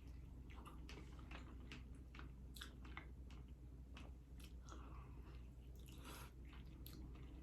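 Faint chewing: scattered soft mouth clicks and smacks of someone eating.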